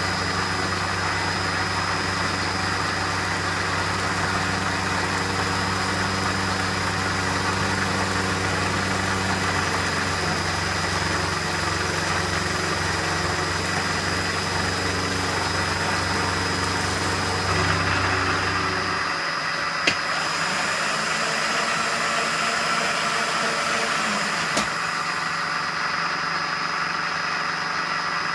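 Metal lathe running under a turning cut, with a steady motor hum and a constant high-pitched whine. The low hum drops away about two-thirds of the way through while the machine keeps running, and two short sharp clicks follow.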